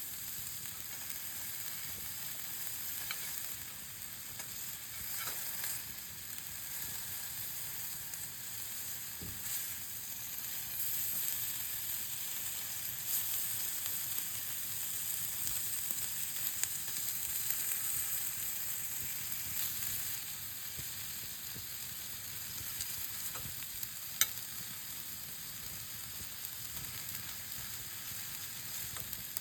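Meat sizzling as it grills over a wood campfire: a steady hiss with a few small pops scattered through, and one sharp pop about 24 seconds in.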